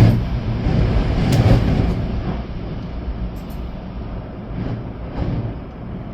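Storm wind gusting, with rain, and a deep rumble of wind. The gusts are strongest in the first two seconds and then ease, with a few sharp ticks about a second and a half and three and a half seconds in.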